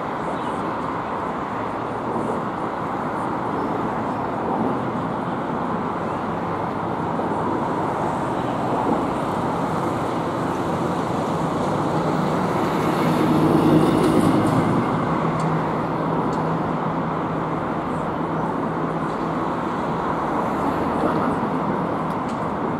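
Freight train of tank wagons rolling past on the rails: a steady rumble of wheels on track, mixed with road traffic, swelling briefly about halfway through.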